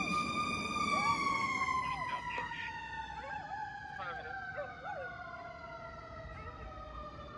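Fire apparatus siren sounding one steady tone that slides slowly down in pitch and fades as the truck pulls away. Faint short voice-like sounds come through in the middle.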